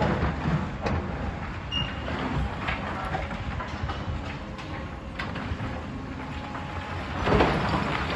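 Heavy demolition machinery working: a steady engine rumble with scattered knocks and clanks of rubble, swelling into a louder burst of crunching noise about seven seconds in.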